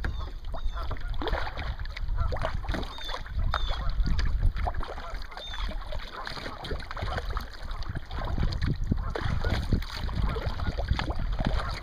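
Kayak paddling on a pond: water splashing and dripping off the paddle in many short splashes, with wind buffeting the microphone in a steady low rumble. A few short high chirps come in the first half.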